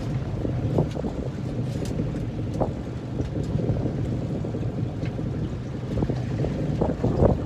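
Small fishing boat's engine running steadily, with wind buffeting the microphone and a few knocks on deck.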